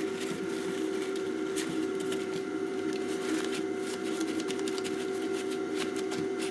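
Kitchen roll rustling with small irregular clicks as a circuit board is wiped and handled, over a steady hum.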